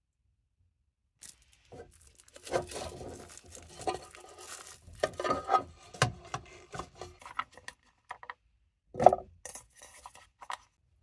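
Hands handling cooking gear and food packaging: rustling, scraping and a string of sharp clatters and knocks, the loudest about nine seconds in.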